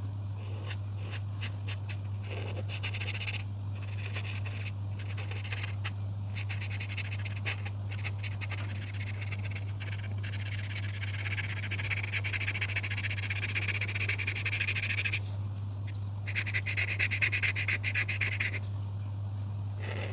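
Rapid back-and-forth coloring strokes scratching on paper, in runs of a few seconds with short pauses, the longest and loudest run in the middle, over a steady low hum.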